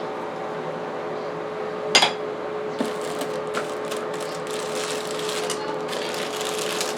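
Bathroom exhaust fan humming steadily. A sharp knock comes about two seconds in, then a run of rustling and handling noises as the parts of a bidet kit are taken out of its box and packaging.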